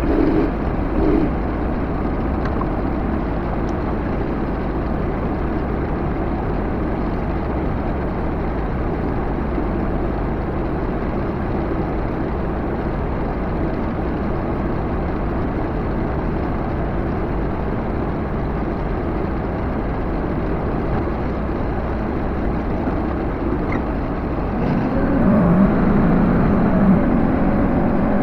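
Backhoe engine running steadily under load, revving up near the end.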